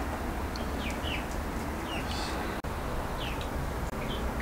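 Small birds chirping, a scattered series of short, falling chirps over a steady background hiss. The sound drops out for an instant a little past halfway.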